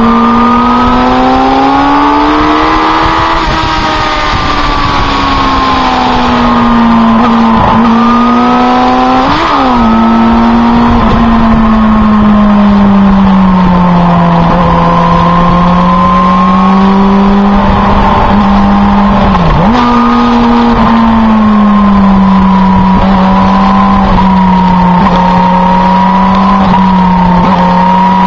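Motorcycle engine heard from on board the bike, running at a steady cruising note that rises and falls gently with the throttle through the bends. There is a short sharp blip about nine seconds in and a quick dip about nineteen seconds in, over a steady rushing noise.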